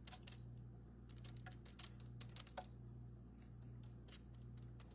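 Faint scattered taps and scrapes of a palette knife dabbing and spreading plaster on cardboard, over a steady low hum.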